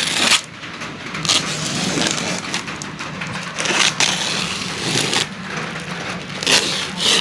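A mystery box of seafood being cut open with a knife and its packaging pulled apart: irregular scraping, crinkling and tearing, with several louder swells.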